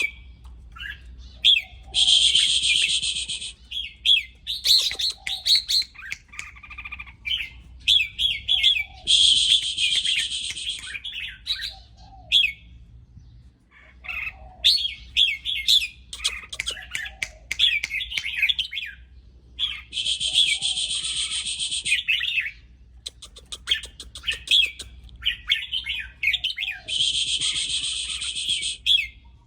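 Red-whiskered bulbul calling excitedly: quick chirping and warbling notes broken by four harsh rasping calls, each about a second and a half long.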